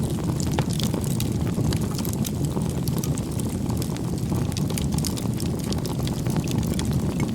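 Wood campfire burning: a steady low rush of flame with frequent sharp crackles and pops from the burning firewood.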